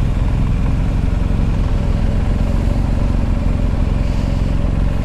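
BMW R1250 GS motorcycle's boxer-twin engine running steadily while riding at speed, with a steady rush of wind noise.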